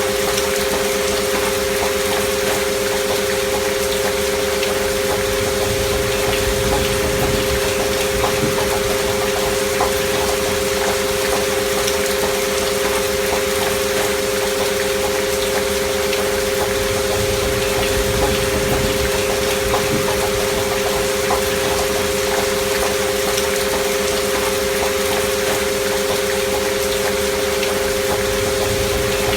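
Steady recorded rain with two continuous pure tones held beneath it, a frequency-healing track meant as a binaural beat. The tones and the rain stay unchanged throughout.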